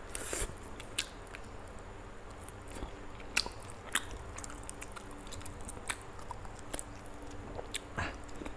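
Close-miked chewing and biting of a roasted chicken leg, with irregular small wet clicks and smacks of the mouth, a few of them louder.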